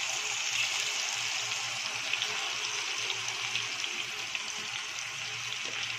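Chicken pieces deep-frying in hot oil: a steady sizzle with scattered small crackles.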